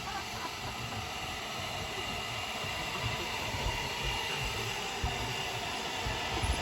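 Steady hiss and low rumble of an approaching narrow-gauge train, growing slightly louder.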